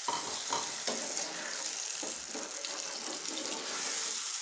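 Chopped tomatoes, onions and potatoes sizzling in hot oil in a frying pan, a steady wet hiss, with a steel spoon stirring and scraping through them a few times.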